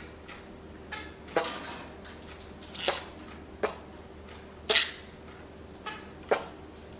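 Small pet parrots making a string of short, quick chirps, about eight in all at irregular spacing, the loudest a little under five seconds in.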